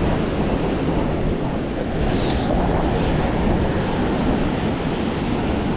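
Swollen, fast river rushing steadily, high after a day of rain, with wind rumbling on the microphone.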